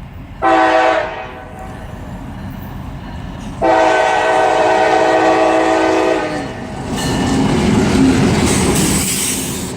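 Freight locomotive's air horn: a short blast, then a long blast of about three seconds. Then the train's rumble and wheel clatter on the rails swells as it comes past.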